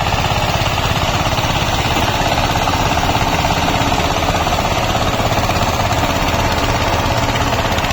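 Tractor diesel engine running steadily under load, with a fast, even chugging beat.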